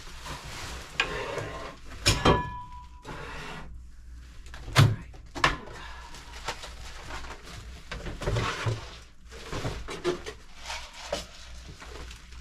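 Pantry clean-out handling: empty cardboard boxes and packages being moved and tossed, rustling with several knocks and thuds, the sharpest about two and five seconds in.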